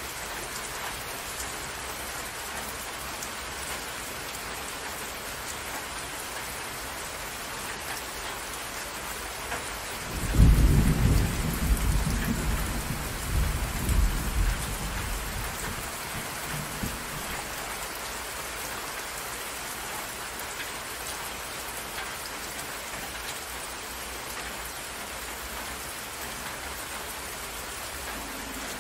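Steady rain falling on open water, a constant hiss of drops hitting the surface. About ten seconds in, a roll of thunder breaks in suddenly, loudest at its start, and rumbles away in several swells over some six seconds.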